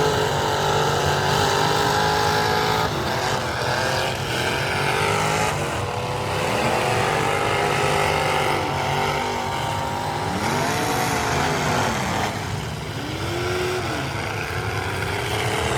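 Several demolition derby car engines running and revving together, their pitches rising and falling and overlapping.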